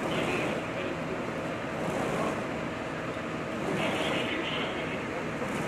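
Steady running of a vehicle engine, with faint low tones under a loud even hiss of outdoor noise.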